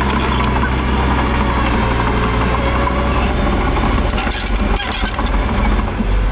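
Diesel engine of heavy earthmoving machinery running steadily, with a brief burst of hissing or clattering noise about four and a half seconds in.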